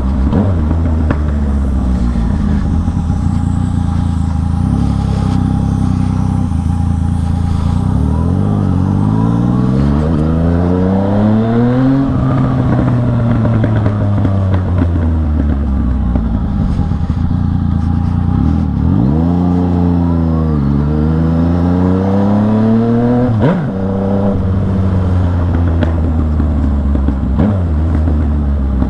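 Yamaha MT-09's inline three-cylinder engine running under way, loud: steady at first, then climbing in revs and easing off, climbing again in two pulls with a sudden break at the top, and settling back to a steady run.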